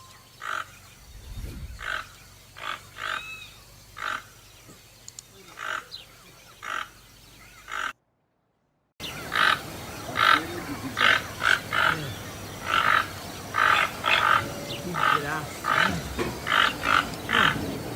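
A pair of toucans calling: short calls repeated about once a second, coming faster and more crowded after the sound cuts out completely for about a second roughly eight seconds in.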